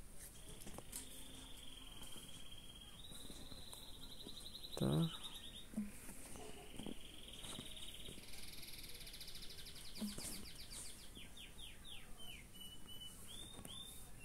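Background bird chirping: high trills with a fast flutter, then a run of short falling whistles near the end. A brief louder, lower sound falling in pitch comes about five seconds in.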